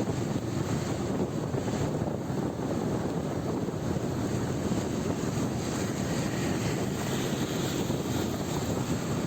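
Wind rushing over the microphone on a moving motorbike, with the bike's running and road noise underneath; a steady, unbroken rush.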